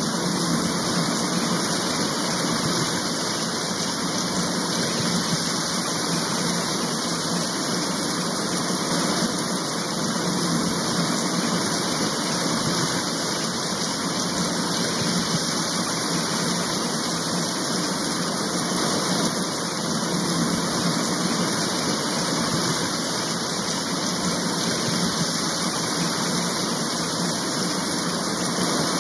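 Steady rain, an even unbroken hiss with no separate drops or breaks standing out.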